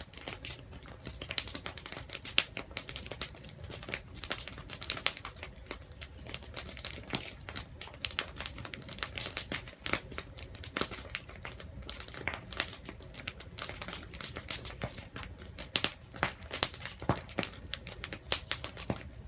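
Campfire crackling: a constant stream of irregular snaps and pops.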